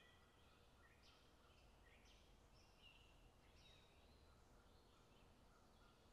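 Near silence, with faint high chirps about once a second, like small birds calling.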